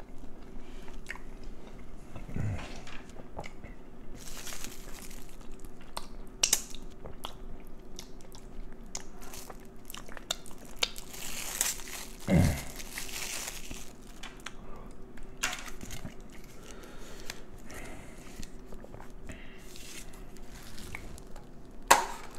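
A person biting and chewing crunchy food close to the microphone: irregular crunches and many small wet mouth clicks.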